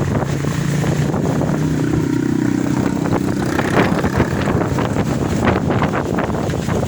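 Strong gusting wind blowing hard against the microphone, with a steady low hum underneath for the first couple of seconds.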